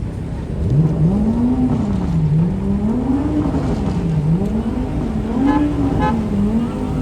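A car engine being revved repeatedly in short blips. Its pitch climbs and drops back several times in a wavy rhythm over a low idle rumble.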